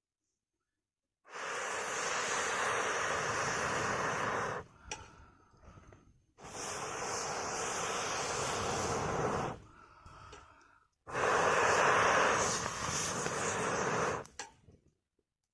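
Three long, steady blows of air through a fire blow pipe into a wood fire, each lasting about three seconds, with a short pause between them.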